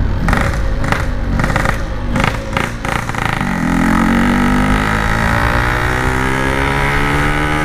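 Yamaha RX-King two-stroke single-cylinder motorcycle engine with an aftermarket 'standart belek' exhaust, heard on board while riding. For about three seconds it runs in short, choppy pulses, then the revs climb steadily as the bike accelerates.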